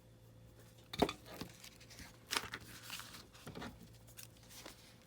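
Magazine paper rustling and crinkling as it is handled by hand, with a sharp tap about a second in and a few softer taps and rustles after.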